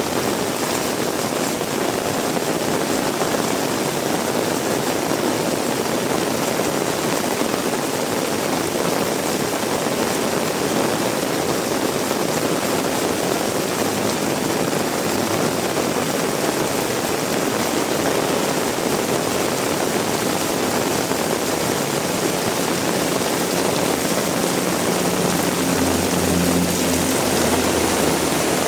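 Heavy rain falling in a steady, dense hiss. Near the end the low hum of a passing vehicle's engine rises faintly under the rain.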